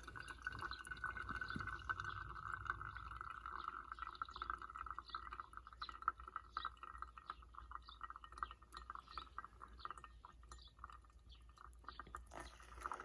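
Hot water poured in a thin steady stream, fading off about ten seconds in and starting again near the end, with scattered small ticks and crackles.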